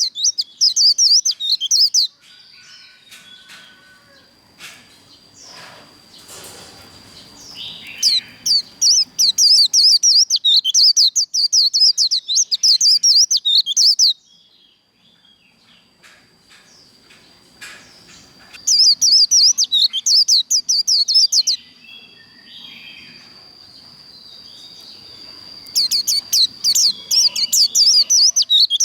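White-eye singing its rapid, high twittering 'líu' song in runs of a few seconds, with pauses between. It sings four times, with a long pause in the middle. During the pauses a thin steady high whistle carries on, along with a few faint clicks.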